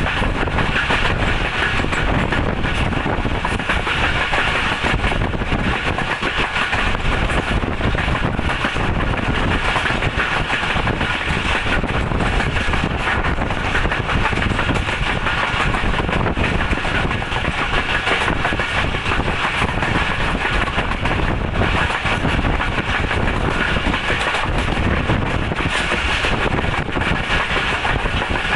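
Steady running noise of a moving Pakistan Railways passenger coach, heard from its open doorway: the wheels running along the track at speed, an even rumble and rattle with no let-up.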